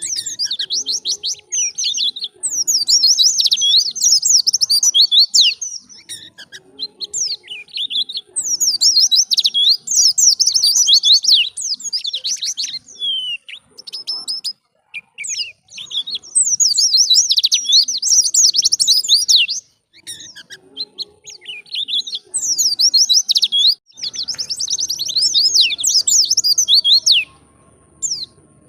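White-eye (pleci) singing: rapid, high twittering song phrases of two to four seconds each, repeated with short pauses between them.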